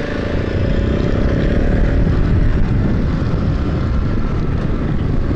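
Husqvarna 701 Enduro's single-cylinder engine running steadily as the motorcycle is ridden along a paved road, heard from a camera mounted on the bike.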